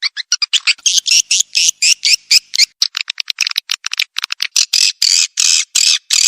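Swiftlet calls played as a lure recording to draw swiftlets in to roost: a rapid string of short, high twittering chirps, several a second, that gives way to longer buzzy calls from about halfway through.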